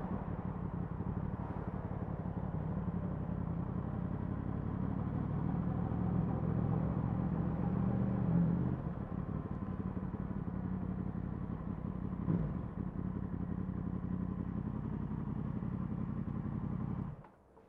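Yamaha MT-10 SP's crossplane inline-four engine running at low, steady revs, with two brief rises in revs about halfway and two-thirds in. It cuts off suddenly near the end.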